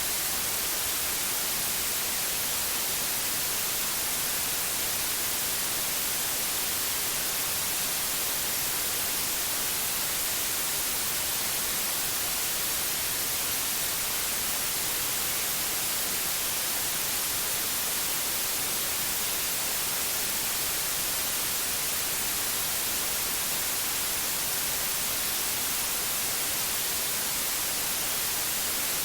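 Pure white noise: a steady, even hiss, brightest in the treble, that never changes.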